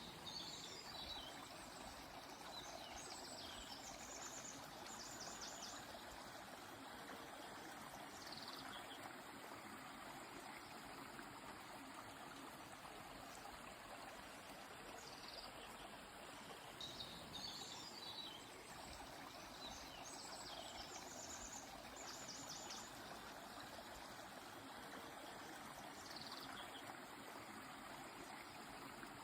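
River water flowing steadily with a soft rushing sound. Faint, high bird chirps and quick trills come in short bursts over it several times.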